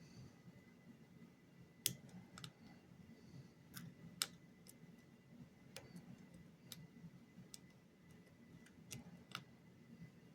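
Faint, irregular clicking of a lock pick and tension wrench working the pins inside a challenge lock, with two sharper clicks, about two and four seconds in.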